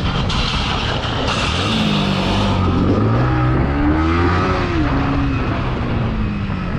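Motorcycle engine running under a steady rush of wind on the microphone, its note rising and falling through the middle.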